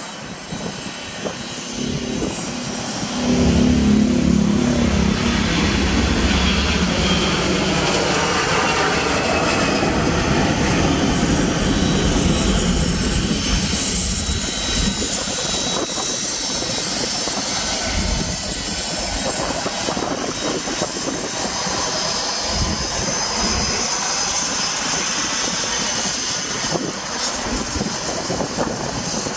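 Airbus A340-313's four CFM56 jet engines running, with the sound getting much louder about three seconds in and staying loud.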